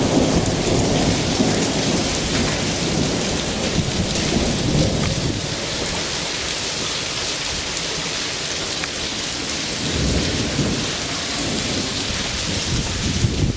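Hailstorm: a dense, steady patter of hail and rain pelting down, with thunder rumbling over the first few seconds and again briefly near the end.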